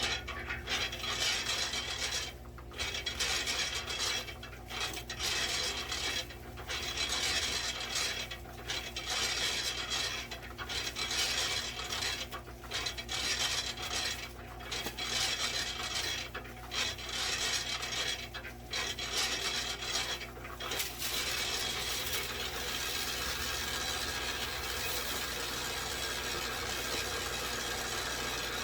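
Homemade cement mixer turning a batch of concrete: a gritty, rasping churn over the motor's steady hum, swelling and dropping about every two seconds as the drum rotates. About 21 seconds in, the rhythm gives way to a steady rushing.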